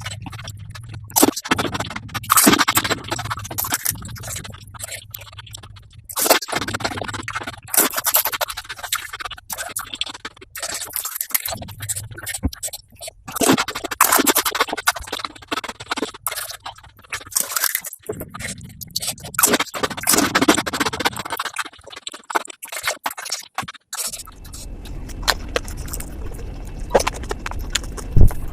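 Close-miked eating sounds of golgappa (crisp puris filled with spiced water) played back sped up six times, heard as dense, rapid crackling and scratch-like noise in irregular bursts. About 24 seconds in it changes to a quieter haze with a low hum and a few sharp clicks.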